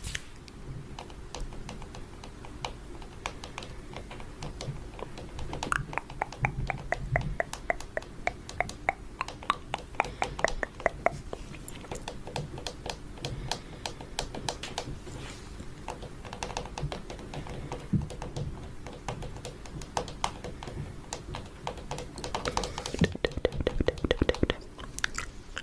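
Fingernails tapping rapidly on a camera for ASMR: quick runs of sharp clicks, busiest a few seconds in and again near the end.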